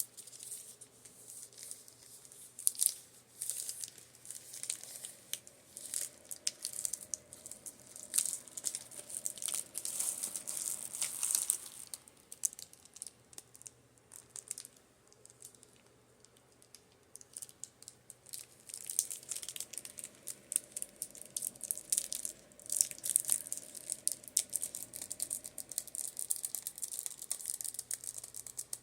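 Quick tapping and scratching on makeup brushes, dense crisp clicks mixed with a bristly rustle. It eases off for a few seconds in the middle, then picks up again.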